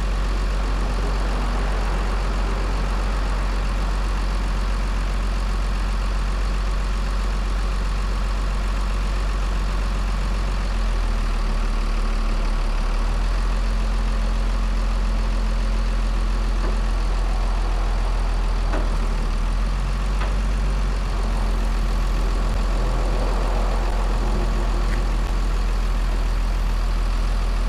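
A mobile crane's heavy engine running steadily at low revs. Its note rises slightly about eleven seconds in, drops back around twenty seconds in, then rises again.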